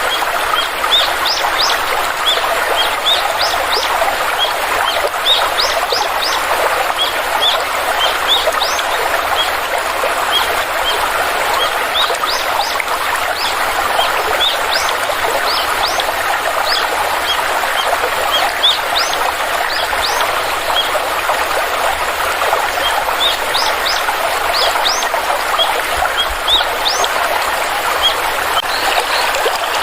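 Water stream flowing steadily, with many short, high bird chirps repeating over it throughout.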